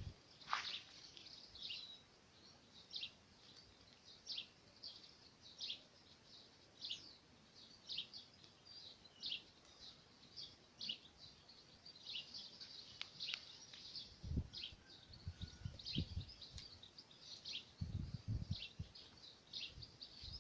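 Small songbirds chirping: short high calls repeating about once a second, with a few low thumps about two-thirds of the way through and near the end.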